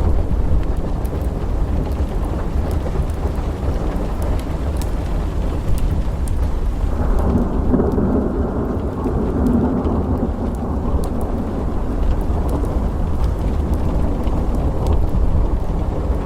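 Steady rain with a continuous deep storm rumble; about halfway through, a roll of thunder swells and fades away over several seconds. Faint scattered crackles of a wood fire sit on top.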